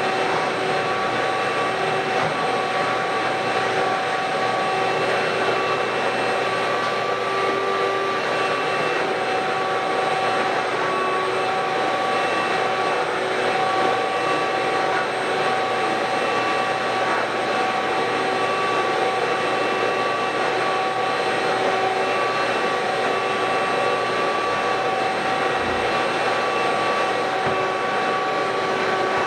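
Ridgid WD1450 wet/dry shop vacuum running steadily on carpet: a constant rush of air with a steady motor whine.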